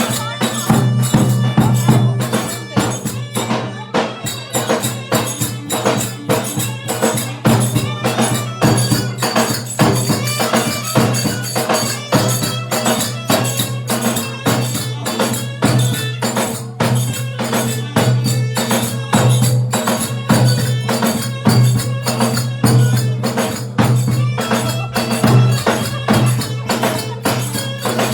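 Turkish folk dance music in the Zonguldak Ereğli oyun havası style, with a fast, steady percussion beat over a held low note.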